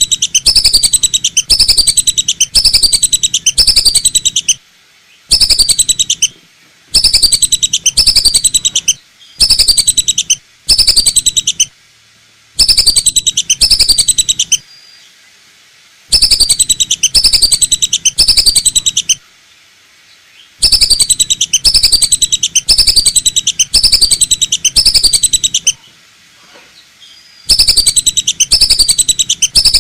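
Lesser whistling duck lure call: quick series of high, falling whistled notes, played loud in bursts of about one to four seconds with short pauses between.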